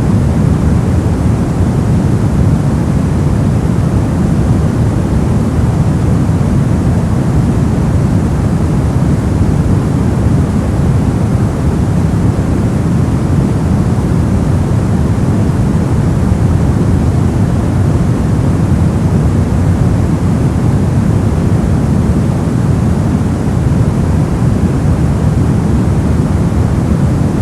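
Steady, unchanging white noise sleep track, a deep, even rush with most of its weight at the low end and no events or rhythm.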